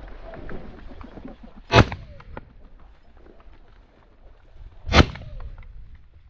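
Two shotgun shots about three seconds apart, each a sharp loud crack with a short decay, over low wind rumble on the microphone.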